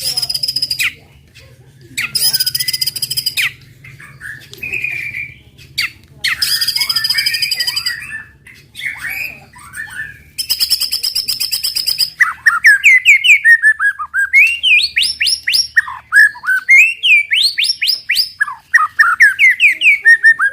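White-rumped shama (murai batu) singing: harsh buzzy rattling phrases of a second or two each in the first half, then from about twelve seconds a fast run of loud, rising whistled notes, several a second.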